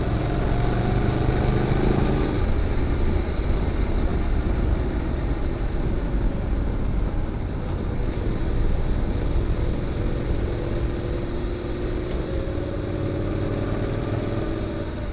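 Honda NC750X's parallel-twin engine running through an aftermarket GPR muffler while the bike is ridden, under a steady rush of wind and road noise. A steady engine note stands out for the first couple of seconds, and comes back near the end slightly rising in pitch.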